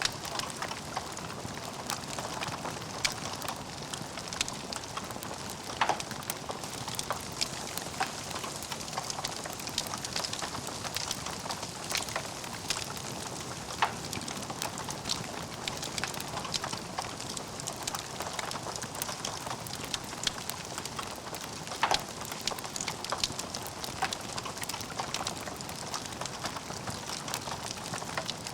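Wood fire burning in a fireplace, crackling steadily with a soft hiss and frequent sharp pops, a few of them louder than the rest.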